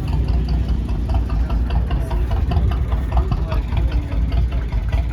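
An engine running at idle with a steady, rapid knocking beat, with faint voices in the background.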